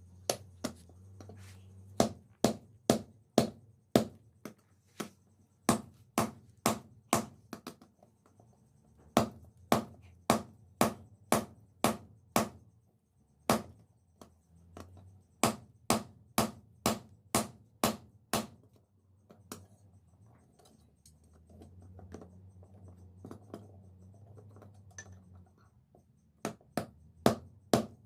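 Hand-forging: a hammer striking steel on an anvil in runs of sharp, ringing blows, about two a second, with short pauses between runs and a low hum in the pauses.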